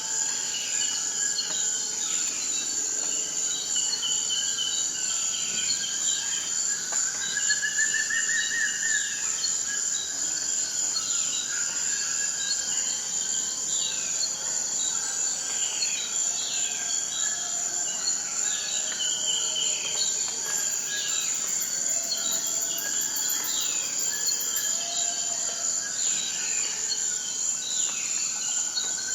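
Forest ambience: a continuous high-pitched insect trill with many birds calling over it, short whistles and quick down-slurred notes overlapping throughout.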